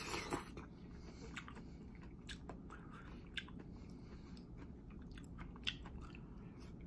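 Close-miked chewing of saucy basil chicken and greens, with scattered wet mouth clicks. A short, louder cluster of mouth sounds comes right at the start as greens are drawn in off chopsticks.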